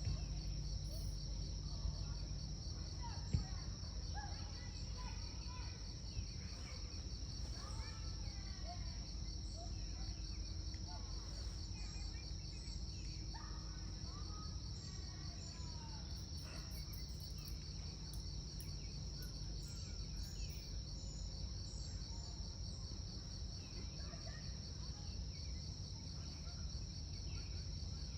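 Insects, crickets or similar, trilling steadily in a high, finely pulsing drone, with short chirping calls over it, most of them in the first half, and one sharp click about three seconds in.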